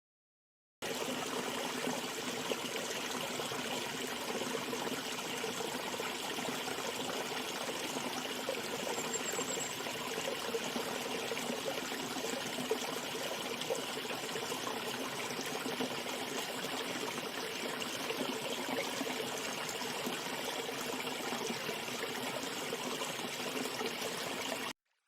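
Flowing water, a steady rushing of a stream, starting abruptly about a second in and cutting off just before the end.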